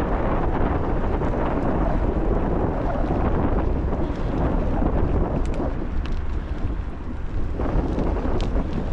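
Strong wind buffeting the microphone during a bicycle ride, a steady low rumble with a few faint ticks.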